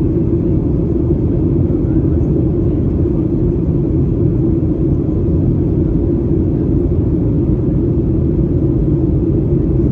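Steady low rumble of a Boeing 737-800 airliner in flight, heard inside the cabin: the drone of its CFM56 engines mixed with airflow noise, even and unbroken.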